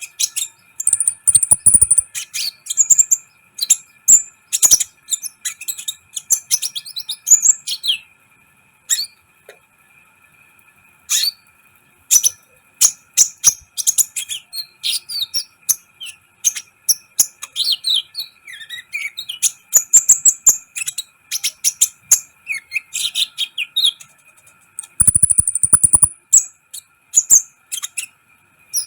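A kolibri ninja sunbird singing energetically in rapid, high-pitched chirps and short trills, with a pause of a few seconds near the middle. Two short bursts of fast clicking come near the start and near the end.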